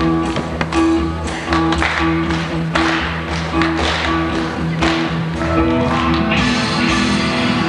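Live band playing an instrumental passage: a pulsing, repeated low note pattern with regular drum strikes, turning into a fuller, brighter sound with cymbal wash about six seconds in.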